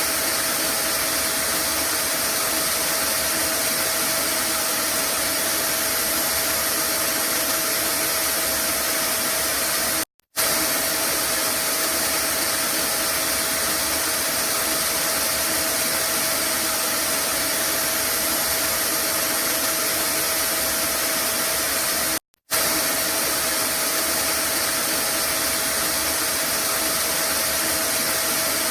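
Vacuum cleaner running steadily as white noise: a constant rushing hiss with a steady motor hum and a high whine. It drops out for a split second twice, about ten and twenty-two seconds in.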